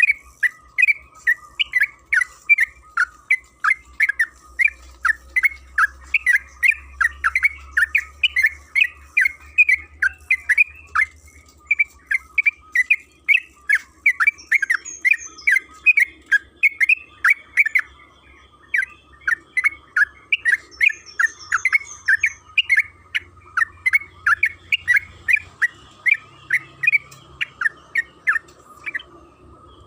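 Yellow-vented bulbul (trucukan) singing a long, fast run of short chirping notes, about three to four a second, with a brief break a little past the middle.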